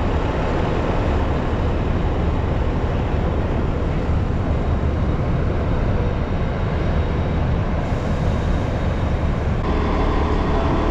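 Amtrak California Zephyr passenger train led by GE P42 diesel locomotives, approaching: a steady heavy low rumble under a rushing noise, with a few faint steady tones joining near the end.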